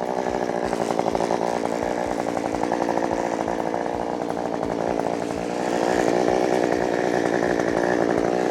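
Two-stroke chainsaw running at high revs while sawing wood, getting louder about two-thirds of the way through.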